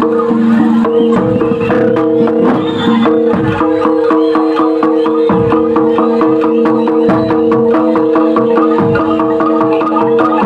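Loud traditional percussion ensemble music: fast, dense drumming and struck percussion over several steady held tones.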